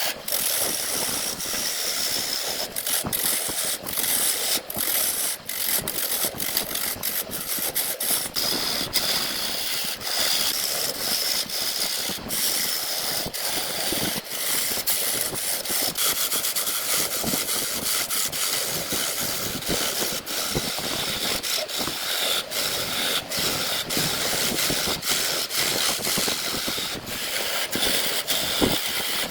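A power tool running steadily on wood, a loud whir with a strong hiss, broken by many brief dropouts.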